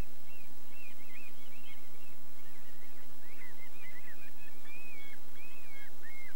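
Birds calling: many short calls that rise and fall in pitch, coming thicker as they go on, with a few longer calls about halfway through, over a steady low hum.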